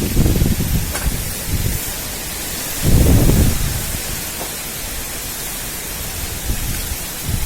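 Strong wind blowing, a steady rushing hiss with two heavy gusts buffeting the microphone as low rumbles, one at the start and a louder one about three seconds in.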